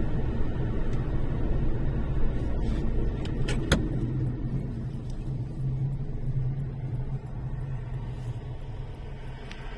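Steady low rumble of a motor vehicle running, with two sharp clicks about three and a half seconds in, fading slightly toward the end.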